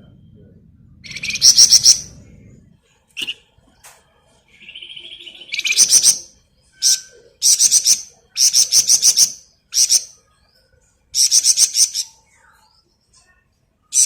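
A flamboyan songbird singing in fast, rattling trill bursts, the 'ngebren' style, each burst about a second long, about seven of them with brief gaps between, plus a short buzzy note midway. A faint low hum underlies the first few seconds.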